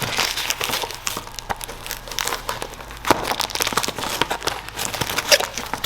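Packaging being crinkled and torn by hand as a mailed package is pulled open, with a run of irregular crackles and rustles.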